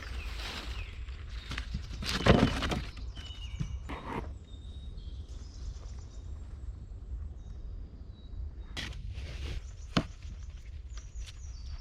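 Irregular crunches and knocks, the loudest about two seconds in and a sharp one near the end, over a low steady rumble, with a few faint short high tones.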